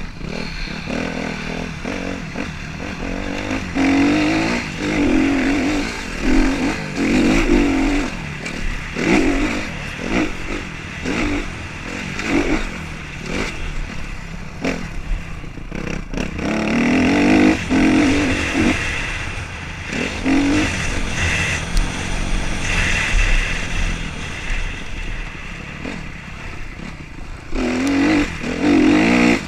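Motocross motorcycle engines revving hard and easing off again and again, the throttle opening and closing in repeated surges as the bikes ride the track.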